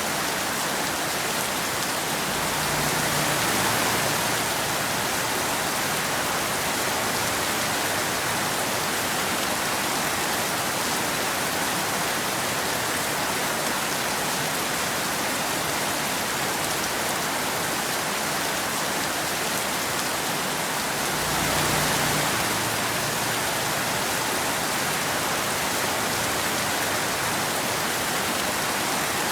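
Steady rain falling on a road, an even hiss that swells briefly about three seconds in and again about twenty-one seconds in.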